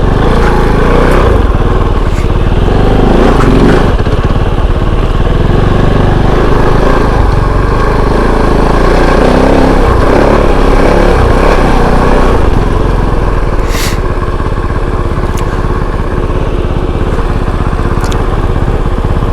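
Kove 450 Rally's single-cylinder engine running under way on a dirt trail, the revs rising and falling, then easing off about two-thirds through. A few sharp ticks come near the end.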